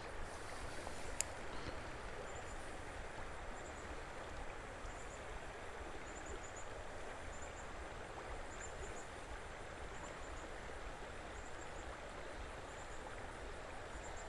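Steady rush of flowing creek water, with faint short high chirps repeating every second or so.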